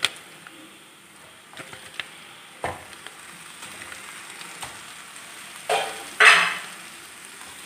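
Raw chicken pieces going into a hot pan of fried onion and spice masala, sizzling in two short loud bursts about six seconds in, after a few light knocks.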